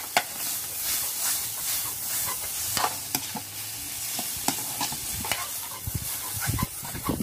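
Chicken sisig with rice sizzling in a kawali (wok), with a steady hiss, while a metal spoon scrapes and knocks against the pan in irregular clicks as the mixture is stirred and tossed.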